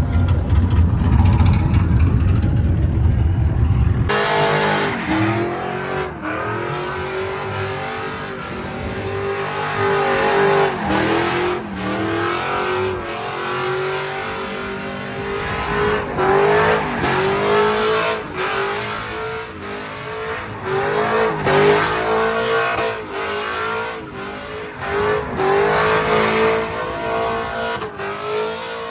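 A low engine rumble cuts off about four seconds in. Then a truck engine revs up and down again and again while it spins its tires in burnout donuts.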